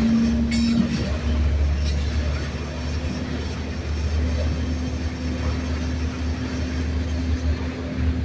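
Train passing: a loud, steady low rumble with a held low hum.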